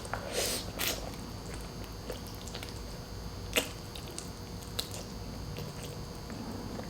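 A person chewing and biting boiled pork hock and rice close to the microphone, with a few sharp mouth clicks, the loudest about three and a half seconds in.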